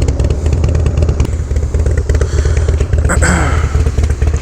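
2016 Harley-Davidson Low Rider S V-twin idling through its aftermarket exhaust: a steady low pulsing beat. A brief swell of noise passes over it about three seconds in.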